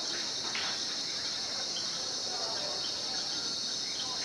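Steady, high-pitched chorus of rainforest insects, several shrill tones held together without a break.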